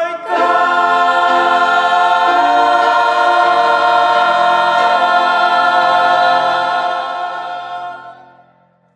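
A choir holds the final sung note of the song as one long sustained chord, which fades out near the end.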